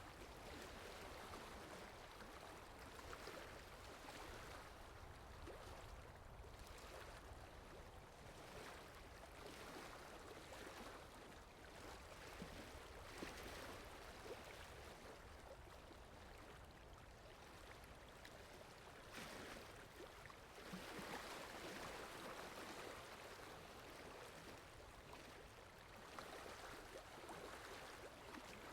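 Faint ambience of rain in a forest: a soft, even hiss of falling water that swells and eases every few seconds.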